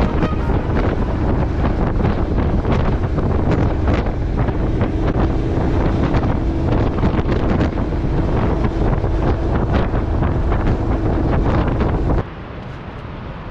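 Wind buffeting the microphone of a motorcycle-mounted camera while riding, a loud rushing with irregular thumps. About twelve seconds in it cuts abruptly to quieter road and wind noise.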